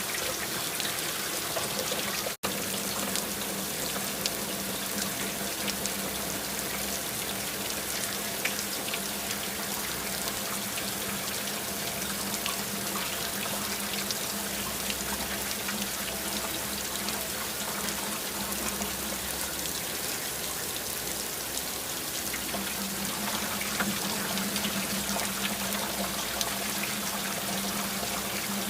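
Steady rain falling and dripping, a continuous even patter with a faint low hum beneath it; the sound cuts out for an instant about two seconds in.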